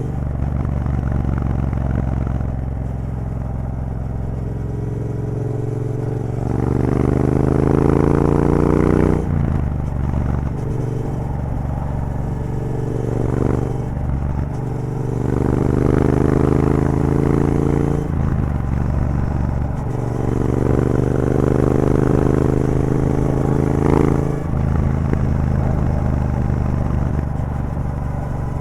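Triumph Bobber's 1200 cc parallel-twin engine through a Vance & Hines exhaust with the catalytic converter removed, under way: the engine note climbs under throttle and drops sharply at gear changes about 9, 18 and 24 seconds in, with a short sharp crack at the last shift.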